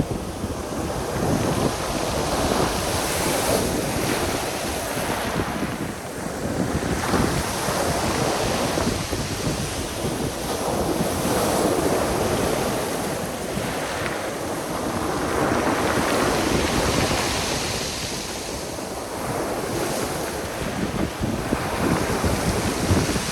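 Sea waves breaking on the shore, the surf swelling and easing every four to five seconds, with wind buffeting the microphone.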